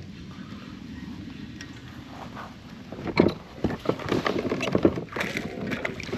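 Wind and water hiss against the kayak, then from about halfway through a run of sharp, irregular knocks and splashes at the kayak's hull.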